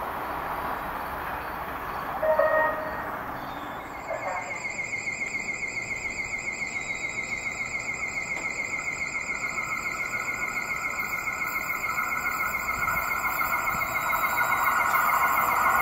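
Rushing noise of an approaching train on the Northeast Corridor, building steadily louder toward the end. From about four seconds in, a high whine pulsing several times a second runs under it, and a brief louder sound comes just before.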